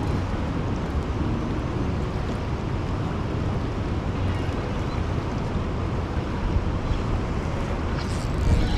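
Steady rushing roar of a big waterfall and its fast water, heaviest in the low end, with wind buffeting the microphone. A short louder thump comes just before the end.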